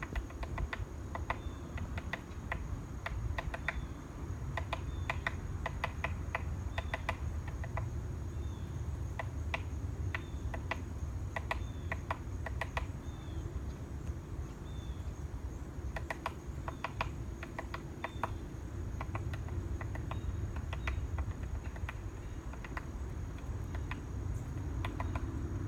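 Woodpecker pecking at a plastic tube: short bursts of rapid, hard taps, several pecks to a burst, repeated every second or two with brief pauses between.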